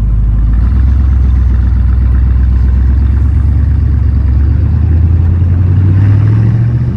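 1972 Corvette's 350 small-block V8 running with a deep, steady note, revving up and rising in pitch near the end.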